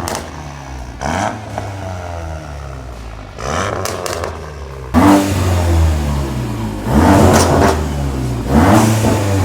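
A VW Golf GTI Clubsport's turbocharged 2.0 TSI four-cylinder being revved through a custom performance exhaust. It gives about six rev blips, each rising and falling in pitch, and runs louder from about halfway.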